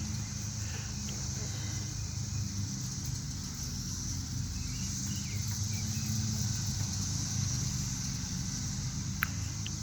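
A chorus of periodical cicadas as a steady, high-pitched hum, described as a mild sound, over a low steady rumble.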